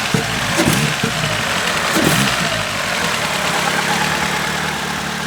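A Proton Wira's 1.8-litre 4G93 four-cylinder with a MIVEC head, breathing through a 2.5-inch exhaust with a resonator and muffler. It is revved in a few short throttle blips, then settles to a steady idle about three seconds in.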